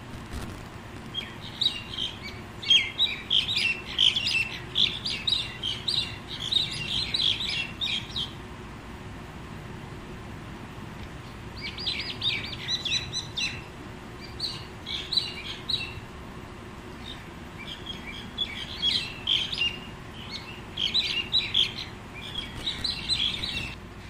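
Birds chirping and chattering in quick, high notes. The calls come in three spells with short pauses between.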